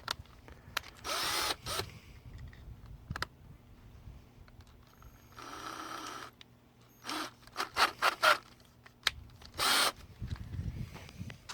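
Electric drill run in a series of short trigger bursts, each spinning up and stopping, while a small bit from a bolt-extractor set starts into the shank of a broken steel bolt in an aluminum head.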